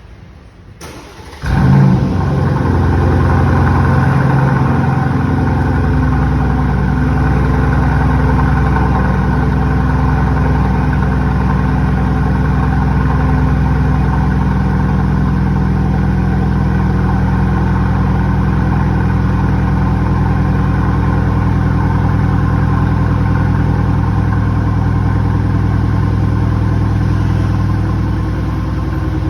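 Aston Martin DB11's 4.0-litre twin-turbo V8 cold-starting: the starter cranks briefly, the engine catches with a short loud flare, then settles into a steady, elevated cold idle. Near the end the level eases slightly as the idle begins to drop.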